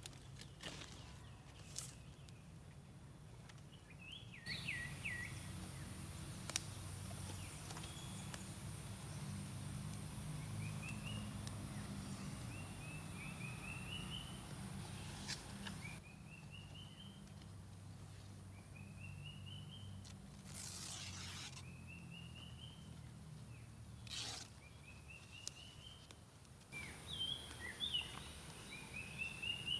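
A bird repeating a short, rising call of quick notes about every two seconds, over a steady low rumble, with a few sharp clicks.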